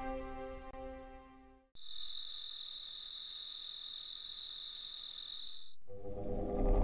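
Background music fades out, then crickets chirp in a steady pulsing trill of about four chirps a second for about four seconds. Near the end a low steady rumble takes over, a window air conditioner running.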